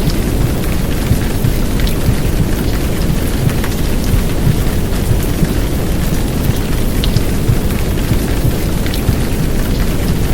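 Heavy downpour of rain, a steady rushing noise over a deep low rumble, with scattered sharp drop ticks on top.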